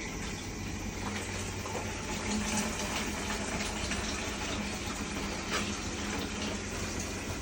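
Water rushing and splashing steadily, over the steady low hum of a washing machine.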